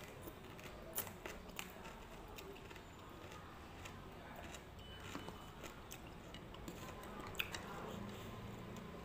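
A person chewing and crunching crisp green papaya salad (som tam), with a few scattered sharp clicks of a plastic spoon against a plastic bowl.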